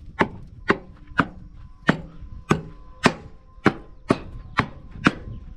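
Repeated knocks on the doors of a grain truck's trailer, about two blows a second, each sharp and short. They are struck with something harder than the rubber hammer the driver says the job needs.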